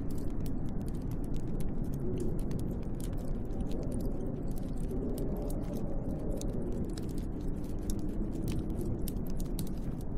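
Snowstorm wind blowing steadily with a low, wavering moan, and a wood fire crackling over it in many small, sharp pops.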